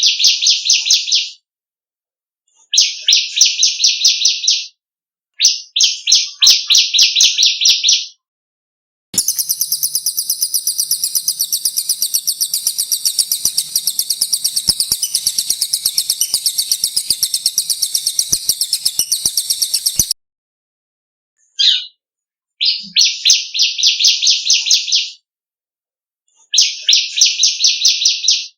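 Songbirds (cililin and ciblek) singing: repeated phrases of rapid trilled notes, each a couple of seconds long with short pauses between. From about nine seconds in, one very high, buzzy, fast-pulsing trill runs on for roughly eleven seconds, and then the shorter trilled phrases return.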